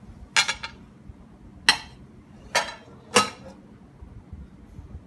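Four sharp, ringing clinks of a bowl knocking against a plate as the cake is turned out onto it.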